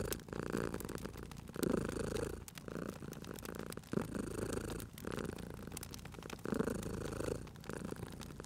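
Domestic cat purring steadily, swelling and easing in a slow rhythm about every two and a half seconds, with the sharp pops and crackles of a wood fire scattered through it.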